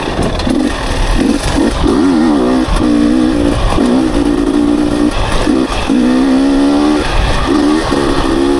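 Dirt bike engine being ridden, revving in short throttle blips at first and then held on longer pulls, its pitch rising and falling with throttle and gear changes.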